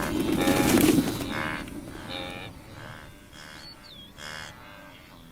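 Wildebeest calling: a run of short, mooing grunts, loudest in the first second over a rush of noise, then repeating more faintly about once or twice a second.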